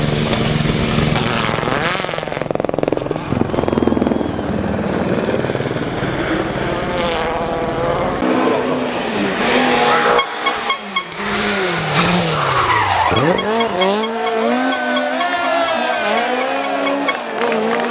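Rally car engine at full throttle, its pitch dropping hard under braking and climbing again through the gears, with tyres skidding on the stage.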